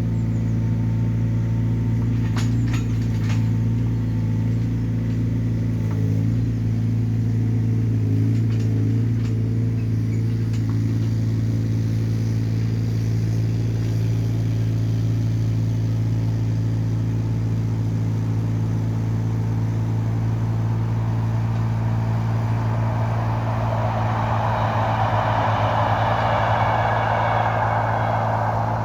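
Small Hyundai excavator's diesel engine running steadily, with a few sharp knocks a couple of seconds in. A rougher hissing noise builds over the last several seconds.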